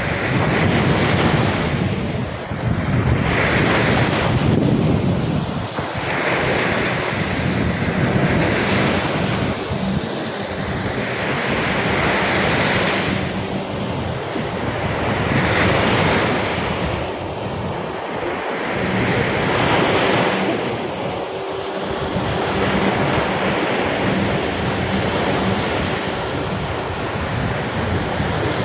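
Storm-driven surf breaking on a sandy beach, waves surging in one after another every few seconds, with wind buffeting the microphone.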